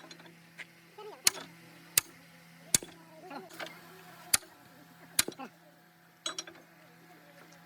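A series of about seven sharp, irregular clicks or taps, like metal being struck or handled, over a low steady hum.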